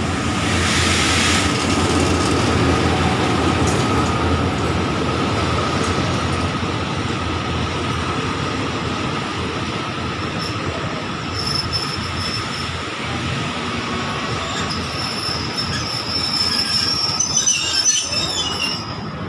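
A locomotive-hauled passenger train pulls into a station. The locomotive passes close in the first second or so, then the coaches roll by with a steady rumble. High metallic squealing sets in about halfway and grows near the end as the train brakes towards a stop.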